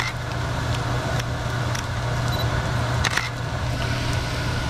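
Garlic-ginger-chili paste frying in butter in a wok: a steady sizzle with scattered sharp pops, two louder ones at the start and about three seconds in, over a steady low hum.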